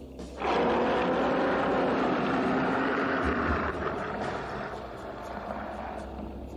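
Tyrannosaurus rex roar (a film sound effect): one long roar starting suddenly about half a second in, loud for about four seconds before trailing off more quietly.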